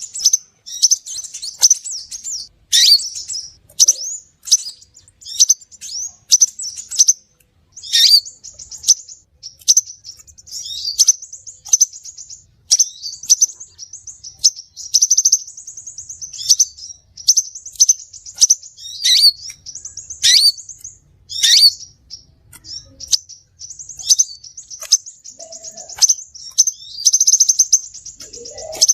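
Crimson sunbird song: rapid, high, thin chirps and trills in quick runs, broken every few seconds by sharp notes that sweep downward.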